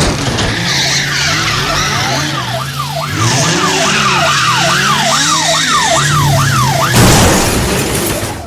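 A siren wailing in fast rising-and-falling sweeps, about two a second, over a low steady hum and a noisy rush. A burst of noise comes about seven seconds in, where the siren stops.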